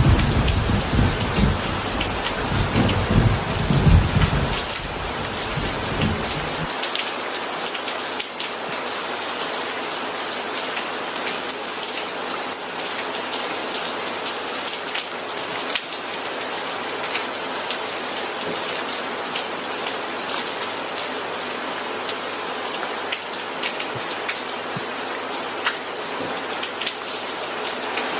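Steady rain hissing and pattering, with a dense spray of individual drops striking a surface. A low rumble of thunder sits under it for the first six seconds or so, then cuts off abruptly.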